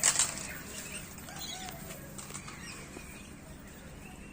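A brief loud fluttering rustle right at the start, then faint chirping bird calls from birds in an aviary.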